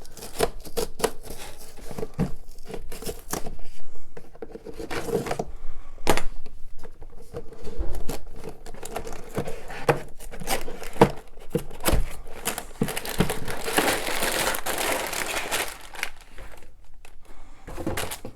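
Cardboard Lego set box being pried open with a brick separator, with scattered clicks, knocks and scrapes, then the contents handled: plastic part bags and paper crinkling and rustling, most densely in the last third.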